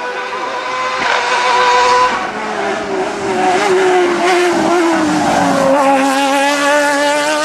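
Hillclimb race car engine running hard on the course; its note falls steadily over a few seconds, then holds steady near the end.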